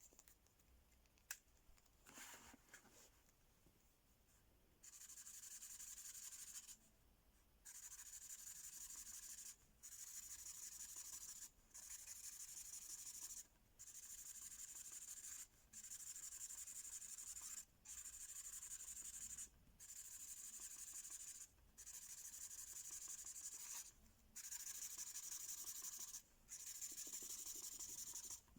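L.O.L. Surprise Imagine Ink marker colouring on paper: faint scratchy back-and-forth scribbling. After a few light taps and rubs, it settles about five seconds in into repeated strokes, each about one and a half to two seconds long with brief pauses between.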